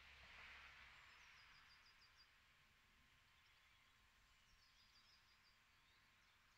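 Near silence outdoors, with faint birdsong: two short runs of rapid, high chirping notes, one about a second in and one about five seconds in. A faint hiss fades out over the first two seconds.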